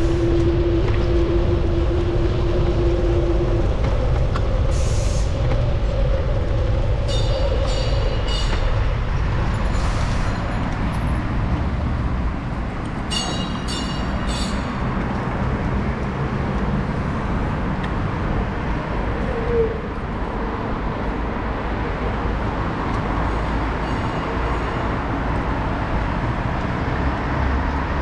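Steady wind and road rumble on a GoPro's microphone during a bicycle ride through city traffic. A steady tone runs for the first few seconds, and short high ringing pulses come in two clusters, about a quarter and about half way through.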